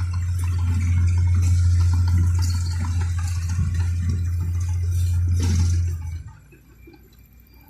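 Bulldozer engine running with a steady low drone, with scraping and rattling noise over it; it cuts off suddenly about six seconds in.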